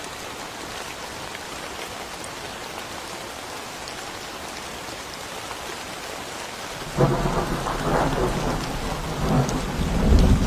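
Steady rain falling, then a sudden crack of thunder about seven seconds in that rolls on as a loud rumble, swelling again near the end.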